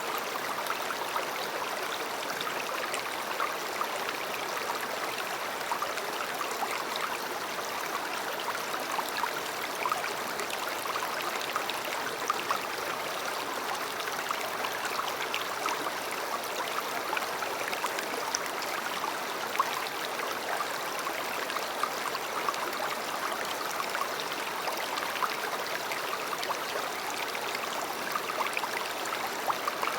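River water flowing steadily: an even, constant rush of water flecked with small trickling splashes.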